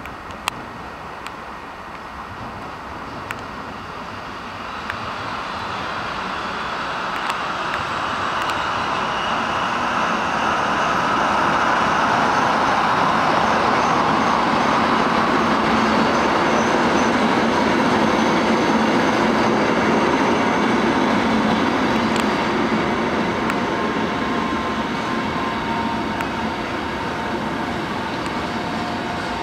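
A train running past on the tracks: its rumble grows over several seconds, stays loud for a while, then slowly eases off, with a few faint high squealing tones over it.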